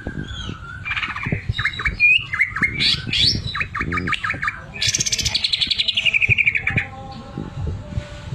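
Green leafbird (cucak ijo) singing a varied run of short whistles and chirps. About five seconds in it breaks into a loud, fast, rattling trill that falls in pitch for nearly two seconds. Soft low knocks come now and then underneath.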